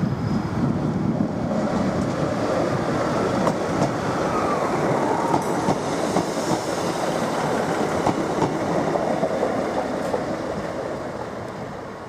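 A train moving along the station tracks: a steady rumble of wheels on rail with faint clicks, easing off near the end.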